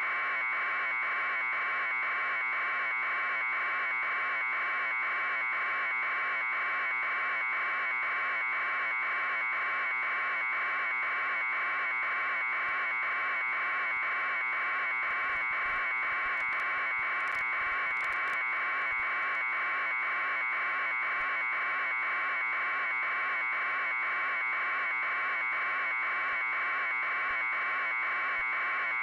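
Helicopter noise picked up by the news helicopter's camera audio: a loud, unchanging, high-pitched buzzing drone that pulses at an even fast rate.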